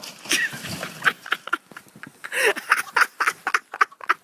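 A quick run of short animal calls, about a dozen in four seconds.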